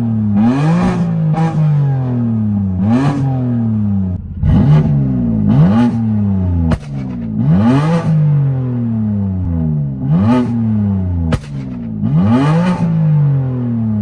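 BMW F80 M3's twin-turbo straight-six, tuned to pop and shoot flames through a VRSF downpipe, single mid pipe and stock muffler, being blipped hard again and again while stationary. There are about eight quick revs, each climbing and falling back. Exhaust crackle and a few sharp, loud bangs come on the overrun.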